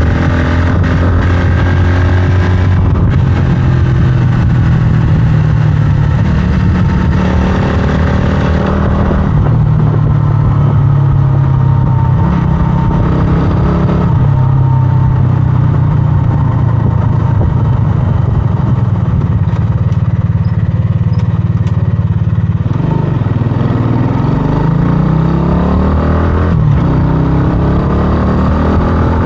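125cc scrambler motorcycle's engine running steadily while being ridden. Its pitch shifts a few times and rises and falls near the end.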